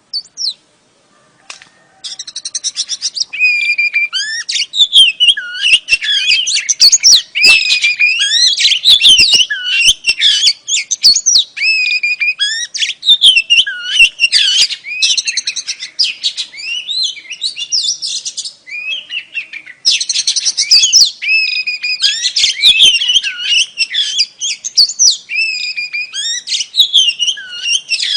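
Oriental magpie-robin (kacer) singing: a single chirp, a second's pause, then a loud, continuous stream of varied whistles, trills and warbles, pausing briefly about two-thirds of the way through.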